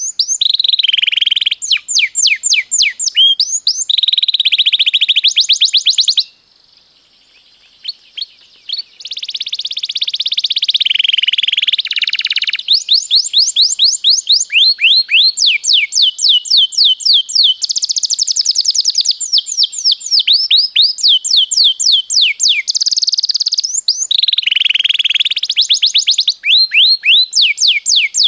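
Domestic canary singing long rolling song: fast runs of repeated sweeping notes and dense trilled rolls. The song breaks off for a couple of seconds about six seconds in, then goes on.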